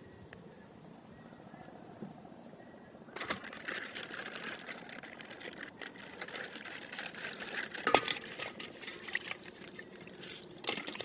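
Plastic wrapping crinkling and rustling as it is handled and torn open, starting about three seconds in, with a louder crackle about eight seconds in.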